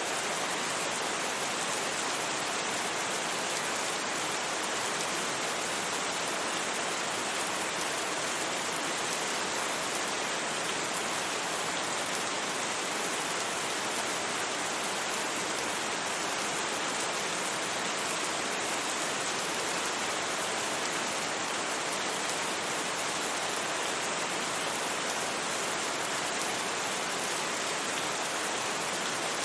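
Steady rain, a dense even hiss that holds unchanged throughout, with no thunder.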